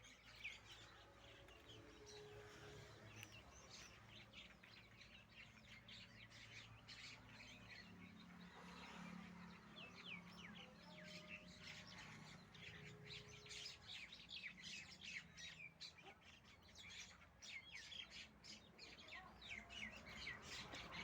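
Baby ringneck parakeet chirping, faint, with many short, quick chirps in a run that gets busier in the second half.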